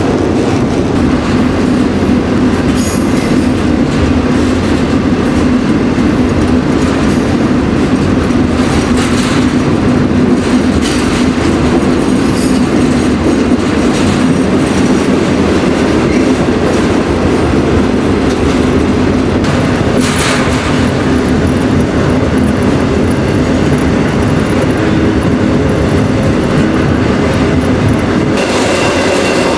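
A freight train rolling along, heard from on board a car: a loud, steady rumble and rattle of steel wheels on the rails, with a few knocks and a thin high squeal now and then.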